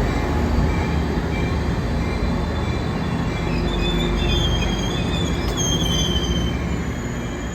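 Passenger train of Bombardier bi-level coaches rolling into the station, the steel wheels squealing in high, wavering tones through the middle of the passage over a steady low rumble.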